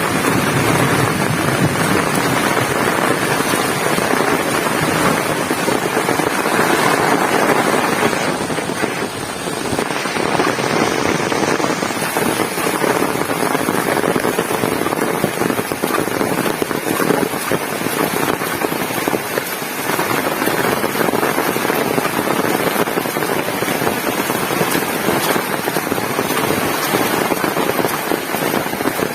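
Heavy rain pouring down and pattering densely on surfaces, a steady wash of noise with a brief lull about eight seconds in.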